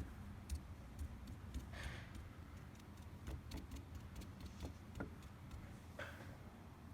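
Faint, scattered small clicks and taps, with two soft brushing sounds about two seconds in and near the end, from dabbing acrylic paint onto spray foam with a sponge brush.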